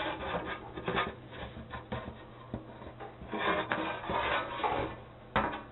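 Irregular rubbing and scraping, swelling in the middle, with a few sharp knocks, about a second in and near the end.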